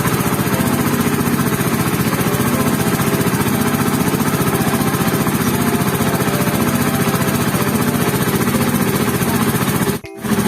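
Boat engine running steadily with a fast, even chug, loud and close. The sound cuts out for a moment about ten seconds in.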